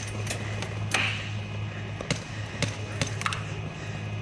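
Airsoft guns firing single shots: six or seven sharp snaps at uneven intervals, some louder and some fainter, over a steady low hum.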